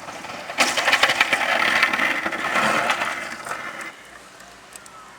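A rough scraping and rattling with many rapid clicks, starting suddenly about half a second in and dying away about three seconds later.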